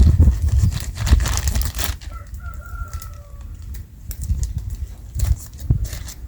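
A bird call about a second long, slightly falling in pitch, about two seconds in, over a low rumble and scattered clicks.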